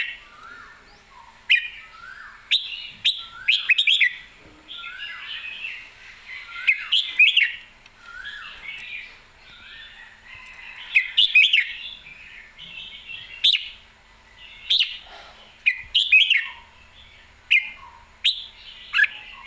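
Red-whiskered bulbul singing: short warbled phrases repeated every second or two, with sharp clicks among them.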